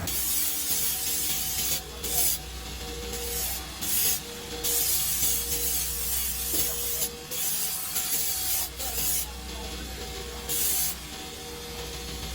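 Workshop machine noise during kick-start lever manufacturing: a high hiss that comes and goes in short bursts of about half a second to a second, several times, over a steady machine hum.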